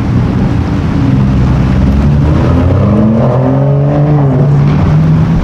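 Sports car engine running loud, revving up with a rising pitch about two seconds in, then dropping back shortly after four seconds.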